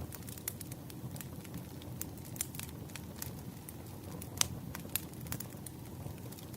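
Wood campfire burning and crackling: irregular sharp pops and snaps over a low steady rush of flame, with one louder pop about four and a half seconds in.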